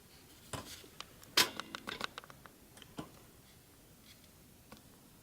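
A run of small clicks and knocks, the loudest about a second and a half in, then faint room tone.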